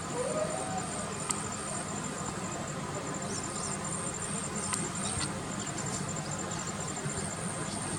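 Outdoor rural ambience: insects chirping in steady, fast high-pitched pulses, with a few brief bird chirps and a low background rumble.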